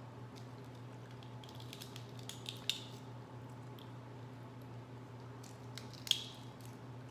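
Seafood shells being cracked and peeled by hand: scattered small clicks and crackles, a cluster of them about two seconds in and one sharp snap about six seconds in, over a low steady hum.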